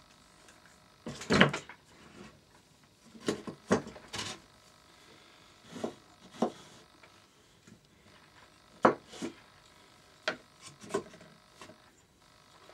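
Irregular knocks and clinks of tools and engine parts being handled on a workbench during an engine rebuild, loudest just after a second in, with further pairs of knocks spread through the rest.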